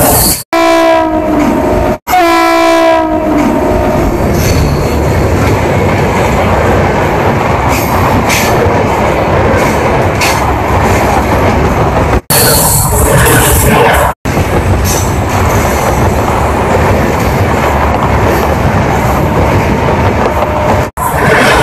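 An electric locomotive's horn sounds for the first few seconds. It is followed by the loud, steady rush and rattle of express passenger coaches passing close by at speed, their wheels clacking over the rail joints. The sound breaks off for an instant a few times.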